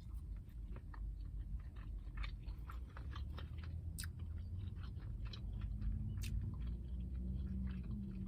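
Close-up chewing of a crispy breaded chicken sandwich, many short wet crunches and clicks. A steady low hum runs underneath.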